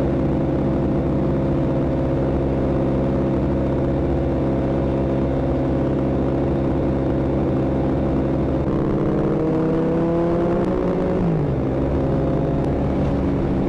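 Motorcycle engine running at a steady speed while riding, with a second engine's pitch gliding up and then falling away about nine to eleven seconds in.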